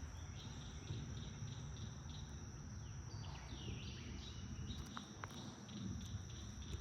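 Faint insect chorus: a steady high-pitched drone with a regular, repeating chirp, over a low outdoor rumble. Two faint ticks come about five seconds in.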